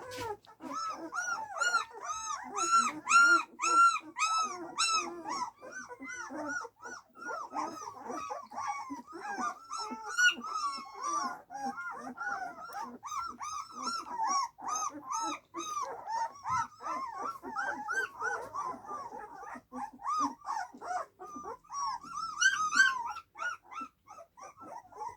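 A litter of young puppies, their eyes just open, whimpering and squealing without a break: short high cries that rise and fall, about two a second at first, then several overlapping one another.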